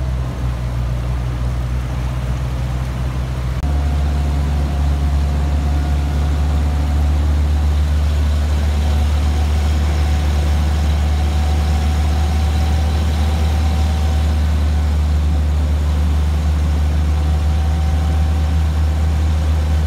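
Amphicar amphibious car's rear-mounted Triumph four-cylinder engine running steadily under way on the water, a loud low drone with a faint higher whine. About four seconds in the drone changes and gets louder, then holds steady.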